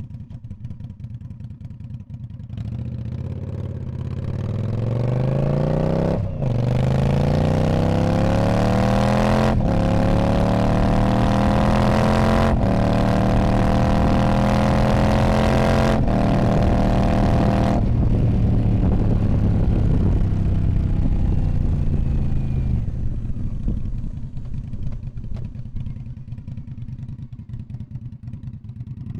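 2019 Indian Scout Bobber's V-twin engine breathing through a Freedom Performance Radical Radius exhaust, pulling up from low revs and accelerating through the gears, with four upshifts about three seconds apart. A little past halfway the throttle closes and the engine winds down toward idle.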